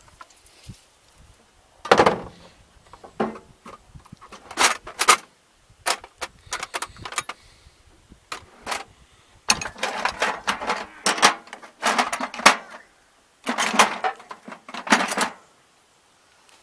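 Irregular metallic clanks and knocks of hand tools and metal parts being handled while working on a seized fuel injector, coming in several clusters with short pauses between them.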